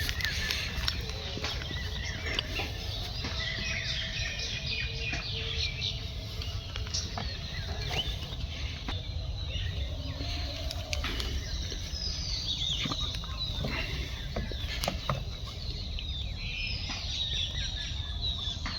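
Small birds chirping and calling in quick, scattered phrases, over a steady low rumble.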